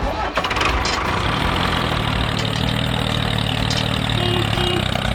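A DIY mini tractor's engine running steadily. It cuts in abruptly at the start.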